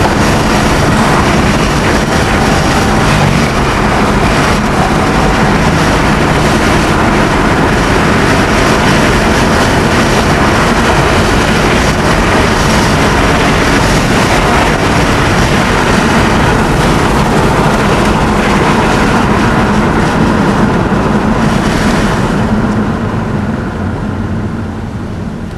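Chrysler Sebring's Mitsubishi 2.5 L 24-valve V6 running as the car drives, a steady engine and road noise that dies down over the last few seconds.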